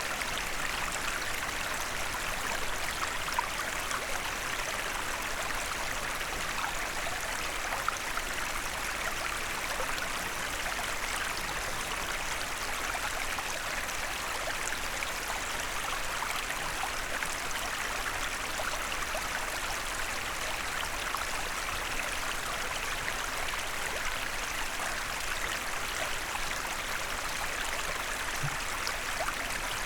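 Small forest stream running steadily over stones: an even rush of water with tiny splashes and drips scattered through it.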